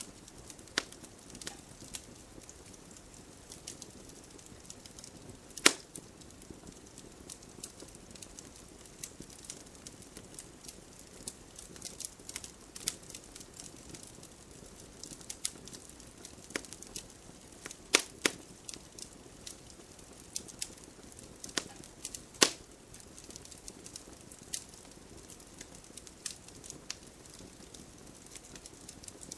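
Wood campfire crackling: irregular sharp pops and snaps over a soft steady hiss, with a few louder pops about six, eighteen and twenty-two seconds in.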